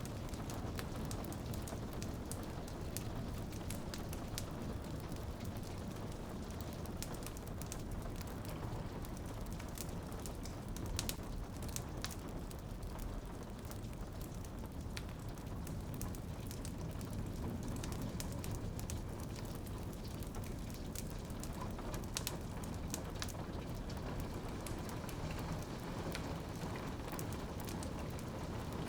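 Rain pattering on a window, layered over a crackling fireplace fire with frequent irregular sharp pops and snaps over a steady low rumble.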